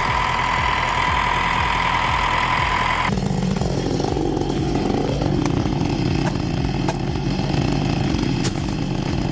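A chainsaw running flat out with a steady high whine, which cuts abruptly about three seconds in to a deeper engine running steadily.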